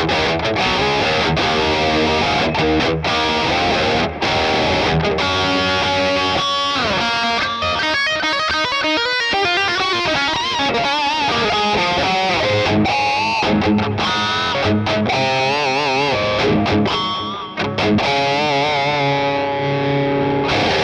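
LTD ST213 electric guitar played through distortion: fast lead runs with notes held and shaken in wide vibrato.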